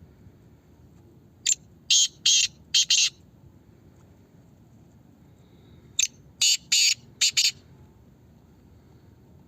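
Male black francolin calling: two harsh, grating phrases of about five clipped notes each, the second starting about four and a half seconds after the first.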